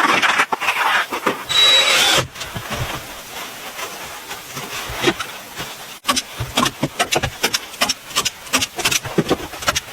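Wood being worked by hand: about two seconds of rough rasping strokes, then a run of light knocks and clicks of wood being handled, growing busier near the end.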